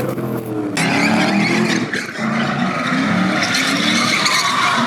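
Car engine revving hard, its pitch rising and falling over and over, with tyres squealing and skidding from about a second in as a car drifts.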